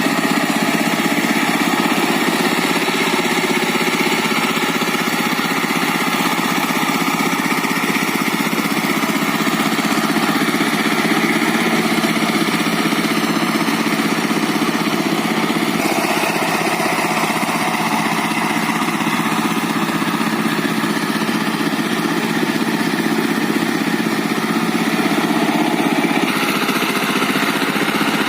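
Diesel walking-tractor engine driving a rotary tiller, running steadily; its note shifts slightly a little past halfway and again near the end.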